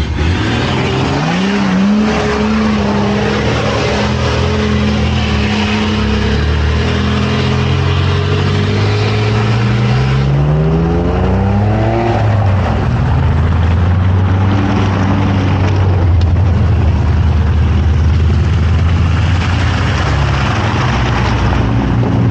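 A car engine revving up with a rising note about a second in and holding steady revs. It climbs again through a rising note around the middle, then settles into lower steady running. Road noise runs underneath throughout.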